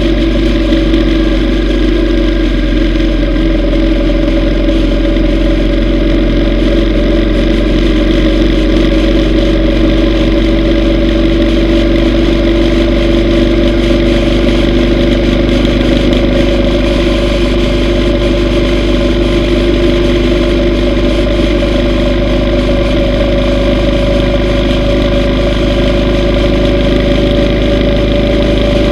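Yamaha V Star 950's air-cooled V-twin engine running steadily on the road, its pitch sagging slightly and then rising again.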